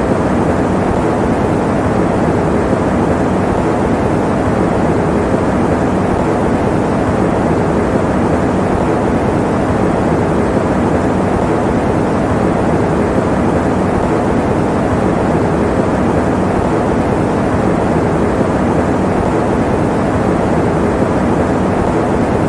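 Electric fan running, a steady, unchanging whoosh that is deep and full, with little hiss in the highs.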